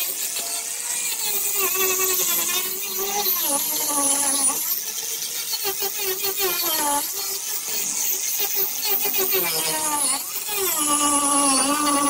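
Electric grinder grinding fiberglass: a high whine over a hiss, its pitch sagging and recovering every second or two as the disc is pressed into the surface and eased off.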